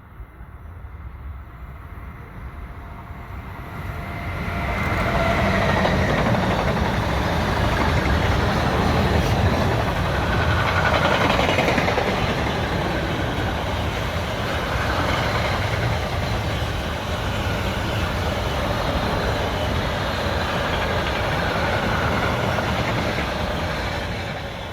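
A train passing by on the track, its wheels rumbling over the rails. The sound swells over the first few seconds, holds steady for about twenty seconds as the cars roll past, and starts to fade near the end.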